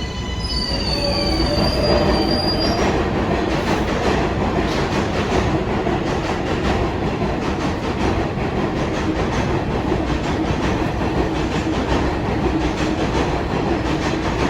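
R188 subway train running on elevated track: squealing wheels and a high whine in the first few seconds, then a steady loud rumble with rail clatter.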